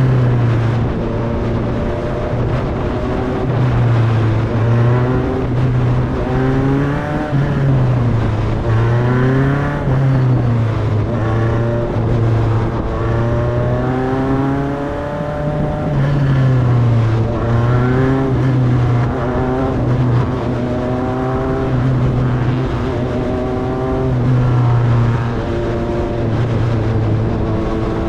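Formula Enterprise single-seater race car's engine heard onboard at pace-lap speed. The revs rise and fall over and over, with the throttle blipped and lifted every second or two, and never reach full race revs.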